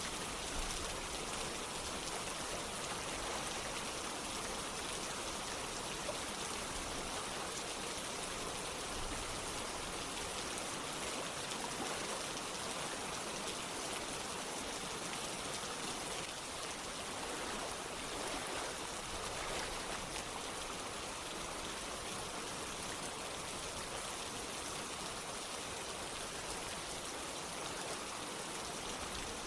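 Steady rain with running water: an even, unbroken patter and rush.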